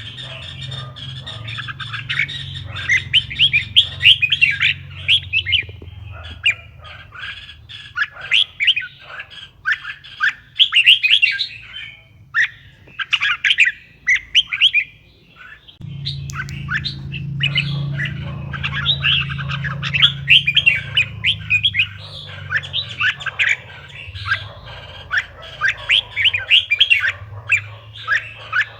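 Red-whiskered bulbuls singing and chattering in quick runs of short, sliding whistled notes, with brief pauses between phrases. A low steady hum sits underneath and grows louder about halfway through.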